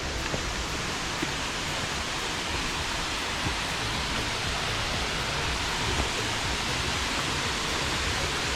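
Waterfall, its falling water rushing with a steady, even noise.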